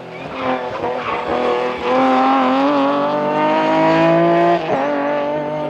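BMW E36 rally car's engine at full throttle: the revs rise and fall in the first couple of seconds, then climb steadily for about two and a half seconds before dropping sharply near the end.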